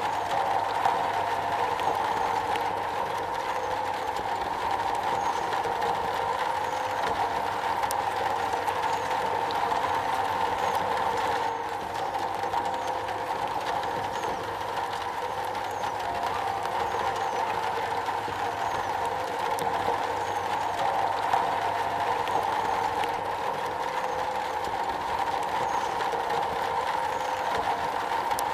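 Steady heavy rain drumming on a metal roof: a dense, even patter with a few sharper drop hits standing out.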